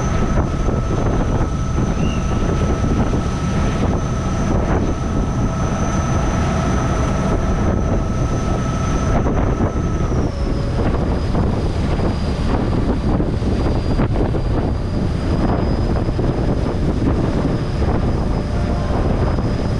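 River boat's engine running steadily under way, with a high whine over the engine noise that drops slightly in pitch about halfway through.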